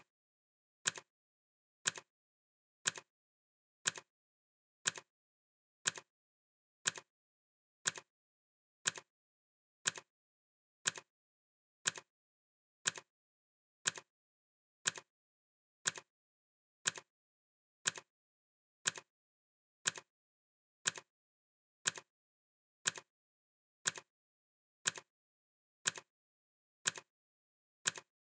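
Clock ticking sound effect, one sharp tick per second, steady and even. Each tick is a crisp click followed at once by a softer one, with silence between ticks.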